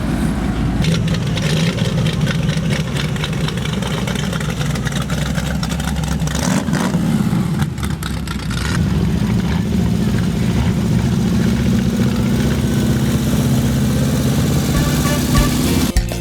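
Car engines running at low speed as cars roll slowly past, a steady low exhaust note throughout.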